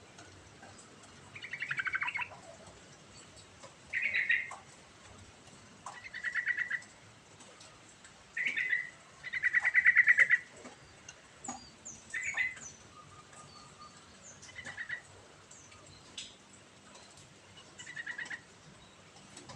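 Yellow-vented bulbul singing: short, fast-trilled phrases at much the same pitch, repeated about every two seconds, the loudest one about halfway through.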